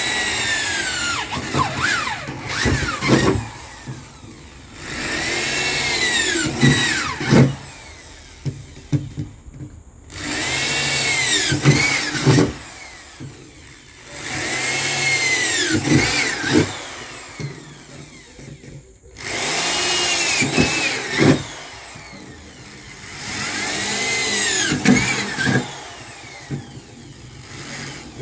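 Power drill boring holes through the shell of an old freezer, in five runs of a few seconds each, the motor pitch rising and falling with the trigger, with clicks and rattles between runs.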